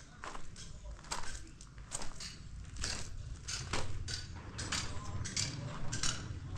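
Footsteps crunching on gritty ground at an even walking pace, about two steps a second, over a low rumble.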